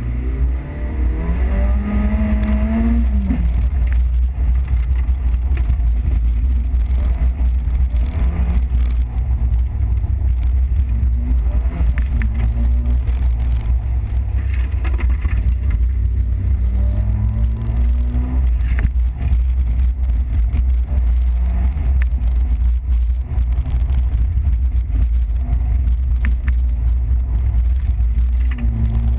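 Peugeot 205 XS engine driven hard on a tight course, heard from inside the cabin: it climbs in pitch as it revs up about a second in, again around two-thirds of the way through and near the end, easing between. A constant heavy low rumble of cabin and road noise runs under it.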